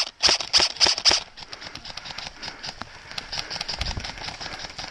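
Airsoft rifle firing five single shots in quick succession, about three a second, stopping about a second in. Then running footsteps through bracken and forest undergrowth, a quick patter with rustling.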